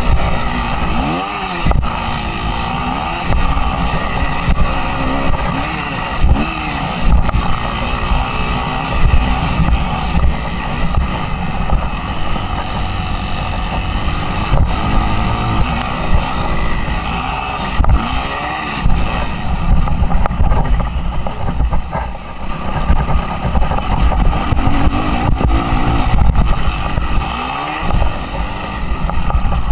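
Suzuki RM-Z 250 motocross bike's four-stroke single-cylinder engine revving up and falling back again and again as it is ridden, with wind buffeting the microphone.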